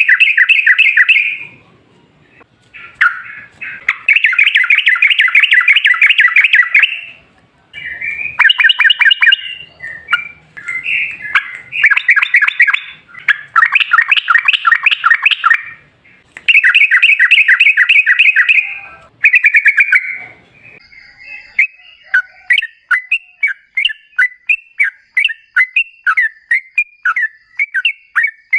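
Yellow-vented bulbul (trucukan) singing loud, rapid, bubbling phrases of rolled notes, each phrase a second or three long with short breaks between. Near the end the song turns into a quick string of separate chirps, about three a second.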